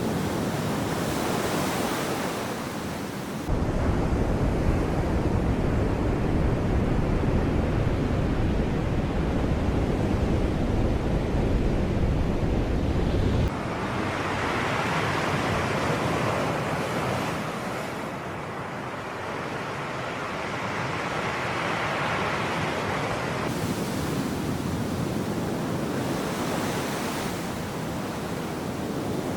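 Sea waves breaking and washing ashore, swelling and fading twice in the second half. A deep wind rumble on the microphone comes in suddenly a few seconds in and cuts off abruptly about ten seconds later.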